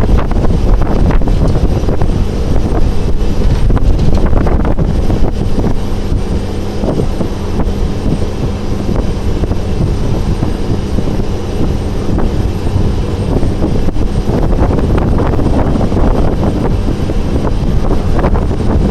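Airbus A321 airliner's jet engines running as it lands, heard through heavy wind buffeting the microphone.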